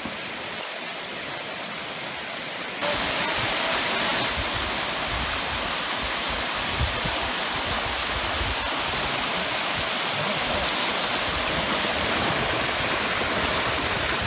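Steady rush of flowing water from a stream or small waterfall; about three seconds in it abruptly becomes louder and brighter.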